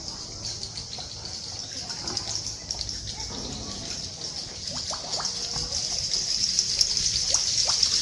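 Water in the cave trickling and dripping: a steady high hiss that grows louder, with a few short chirps in the second half.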